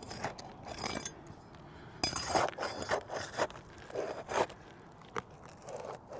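Tool scraping and prying under asphalt shingles to work a roofing nail loose: a run of irregular rasping scrapes, loudest about two seconds in, with a sharp click near the end.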